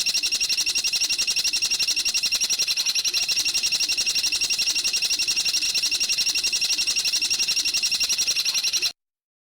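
A bird's rapid, even trill of high, sharp notes, about a dozen a second, cutting off abruptly near the end. It is a recorded call played as a training lure for songbirds.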